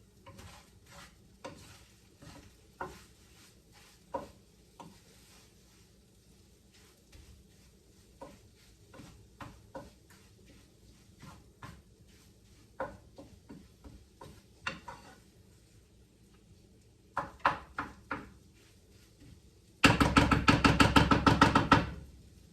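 Kitchen clatter: scattered light knocks and clinks of dishes and utensils being handled, then, near the end, about two seconds of loud, very rapid rattling.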